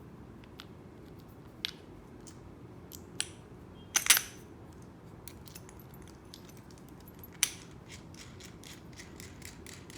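Small metal parts clinking and knocking as screws and a foot pad are fitted to a die-cast aluminium chair leg: a few sharp knocks, the loudest about four seconds in, then a run of small quick ticks near the end.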